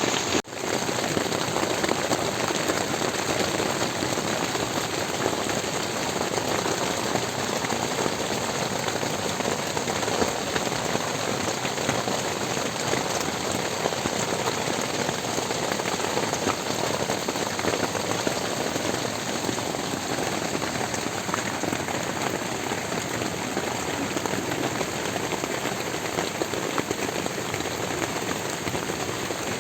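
Steady rain falling, an even hiss of drops throughout, with a brief break about half a second in.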